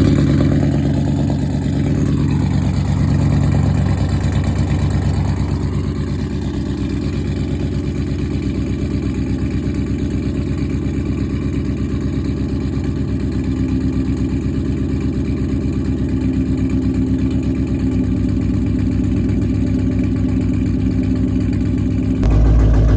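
Dodge SRT8's 392 HEMI V8 running, with a brief rise and fall in engine speed in the first few seconds and then a steady idle. The engine has a misfire that makes it shake, which the owner thinks is probably the lifters or the heads.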